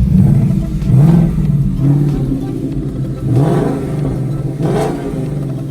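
2017 Mustang GT's 5.0 L V8 running and revved in about three short blips, rising in pitch and dropping back each time, while its refilled cooling system bleeds.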